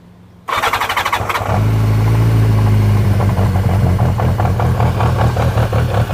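Yamaha XJ550 Maxim's air-cooled inline-four engine cranked by the electric starter for about a second, then catching and settling into a steady idle.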